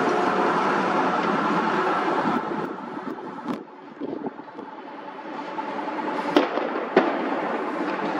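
Train running past with a steady rumble and a few held tones that die down after about two seconds, then three sharp firecracker bangs, about three and a half, six and a half and seven seconds in.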